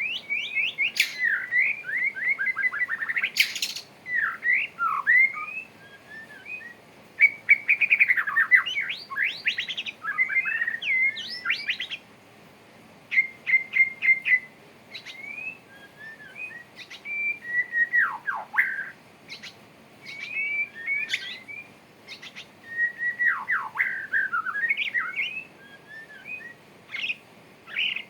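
Male white-rumped shama singing its courtship song: a varied run of clear whistles, rapid trills and steep downslurred notes in short phrases, with brief pauses between them.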